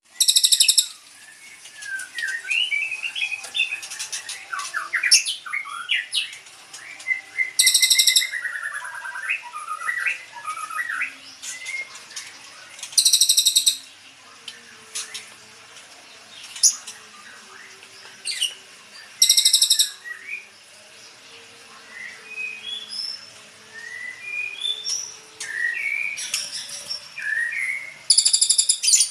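White-rumped shama birds calling: many short chirps and whistled notes that slide up and down in pitch. Five loud, harsh, buzzy calls of under a second each stand out among them.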